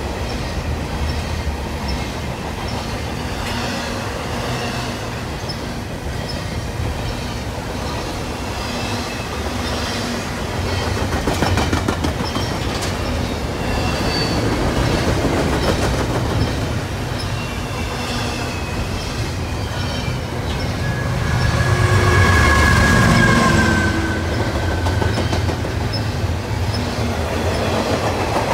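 Double-stack intermodal container well cars rolling past at speed: a steady rumble of steel wheels on rail with clickety-clack over the joints and faint high wheel squeal. About 21 seconds in it swells louder for a few seconds, with a clear high-pitched wheel squeal.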